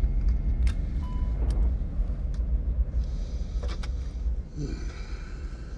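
Airliner climbing after takeoff, heard from inside the cockpit: a steady low rumble of engines and airflow that eases slightly towards the end. A few sharp clicks sound over it, about four in all.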